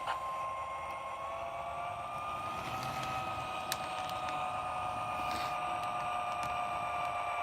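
Lionel LionChief Plus BNSF locomotive's onboard sound system playing its diesel engine sound through a small speaker: a steady, thin hum that rises in pitch a little in the first few seconds, then holds steady.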